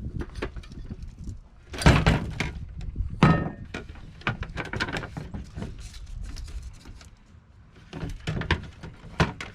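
A bird feeder being handled: a run of knocks, clatters and scrapes, with two louder thumps about two and three seconds in, as rain-hardened seed inside is knocked loose.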